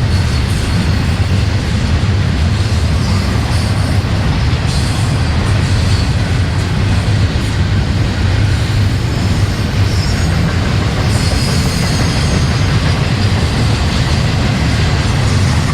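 Freight train cars rolling past on the rails: a steady, loud, low rumble of wheels on track, with faint high wheel squeal coming and going.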